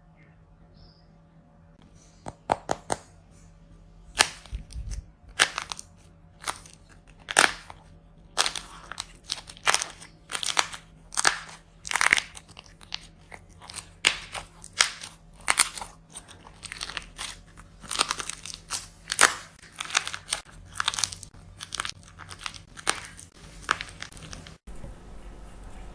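Dry plaster clay being crushed and broken apart: a dense run of sharp, crunchy cracks and pops starting about two seconds in and cutting off shortly before the end.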